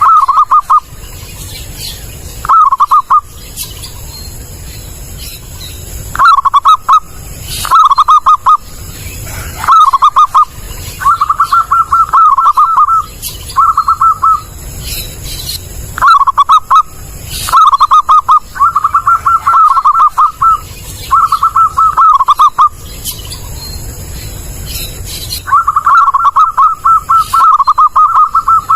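Zebra dove (perkutut) cooing loud and clear: about a dozen staccato, rapidly pulsed coo phrases on nearly one pitch, coming every second or two. Some phrases are short and some run on as longer rolling series, with the longest near the end.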